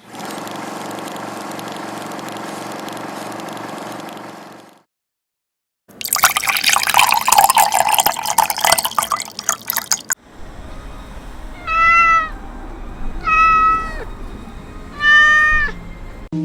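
A cat meows three times, each a short call about a second and a half apart, near the end. Before this come a steady hum, a brief silence, and a few seconds of splashing, liquid-like noise.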